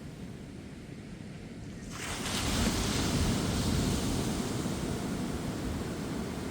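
Ocean surf on a beach: a wave breaks about two seconds in, its hissing wash loud at first and then slowly fading.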